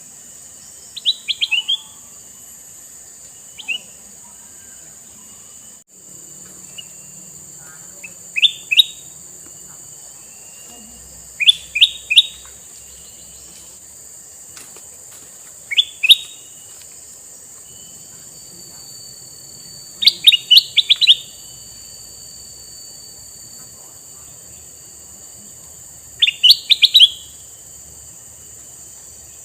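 Male kutilang mas bulbul singing short phrases of a few quick notes, about a second each, repeated every three to six seconds over a steady high hiss.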